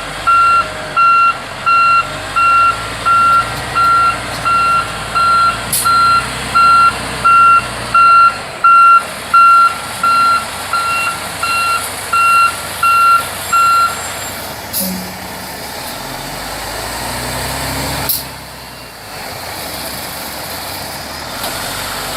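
Military truck's reversing alarm beeping evenly, about one and a half beeps a second, then stopping about fourteen seconds in, with a diesel engine running low underneath. A single short, sharp sound comes near the end.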